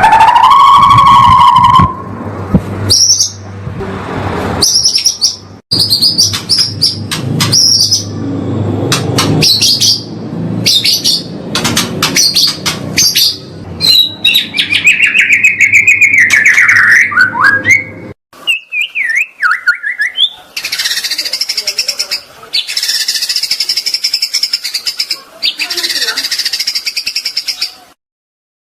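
Songbird song of the kind played to train young white-rumped shamas: a steady whistled note at the start, then quick high repeated notes, a run of falling whistles, and a long fast high-pitched chattering trill that cuts off near the end. A low hum lies under the first two-thirds and stops suddenly.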